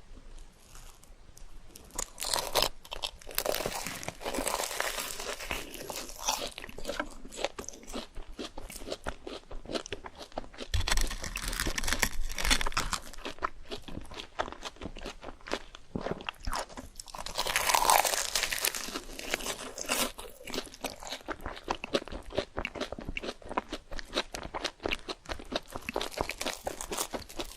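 Close-miked eating of crunchy fried food: crisp bites and steady crunchy chewing, with several louder bursts of crunching.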